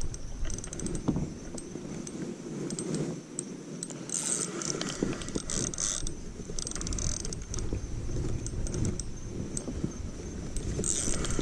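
Spinning fishing reel being cranked: a run of small mechanical clicks and rattles, with bursts of higher whirring about four, six and eleven seconds in.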